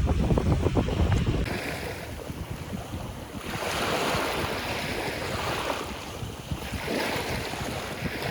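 Sea waves washing ashore in slow swells, with wind buffeting the microphone; the first second or so holds a heavier low wind rumble with scattered crackles before the sound changes abruptly.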